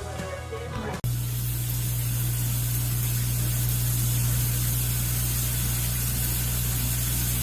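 Guitar music cuts off about a second in, replaced by a steady, loud hiss with a low hum underneath.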